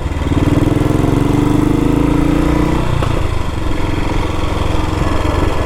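1962 Matchless G80CS's single-cylinder four-stroke engine running under way. Its note climbs slightly, then drops suddenly about three seconds in and carries on at a lower note.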